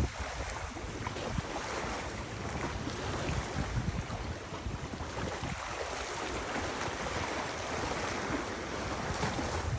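Wind gusting over the microphone with a low, uneven rumble, over the steady rush of river water.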